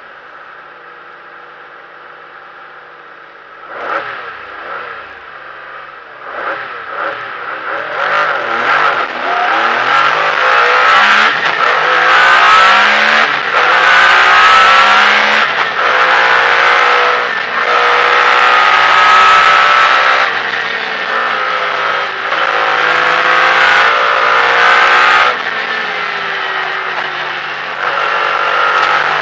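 MG Metro 6R4 rally car's V6 engine heard from inside the cabin, idling at the start line and then launching about four seconds in and accelerating hard, its pitch climbing and dropping back again and again with each gear change.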